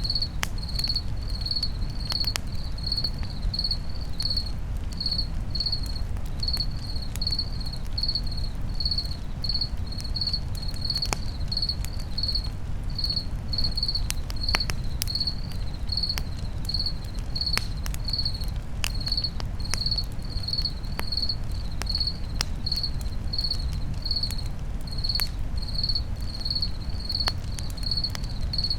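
A cricket chirping steadily at about two chirps a second, over a campfire crackling with scattered sharp pops and a low, steady rumble.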